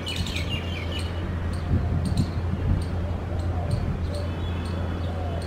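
A bird chirps in a quick run of short notes in the first second. Rain drips knock and tap against surfaces around the middle. A steady low hum and regularly repeating high ticks run beneath.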